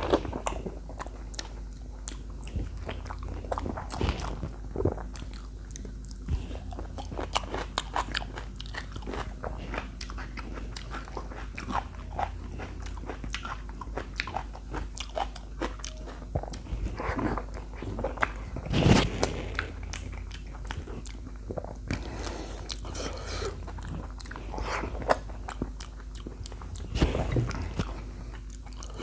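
Close-miked eating of chicken feet: irregular biting, crunching and wet chewing with many small clicks, louder bursts about two-thirds of the way in and again near the end, over a low steady hum.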